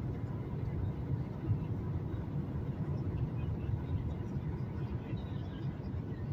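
Steady low rumble of engine and air noise inside the cabin of a Southwest Boeing 737-800 on its descent, with a faint steady whine above it.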